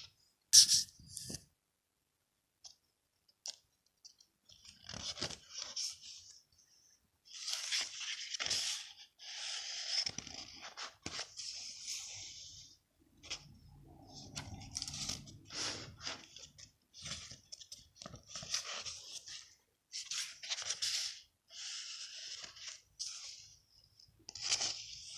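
Paper pages of a handmade journal rustling and crinkling as they are handled, in irregular bursts with short pauses and a few sharp clicks.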